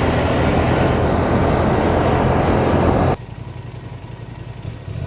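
Honda Transalp motorcycle under way, its engine heavily mixed with wind rush. About three seconds in, the sound drops suddenly to a much quieter, steady low engine hum.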